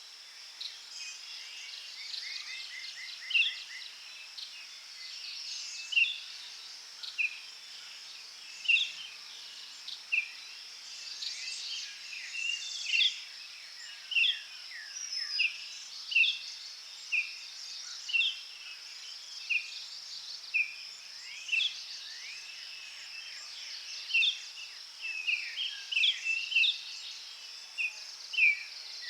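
Forest ambience: a bird repeating short, sharp, downward-slurred chirps about once a second, with a quick run of rapid notes early on, over a steady high-pitched insect buzz.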